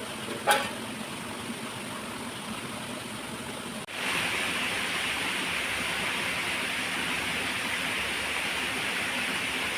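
Steady rushing water of a waterfall. About four seconds in it jumps to a louder, brighter hiss that holds steady. There is a sharp click about half a second in.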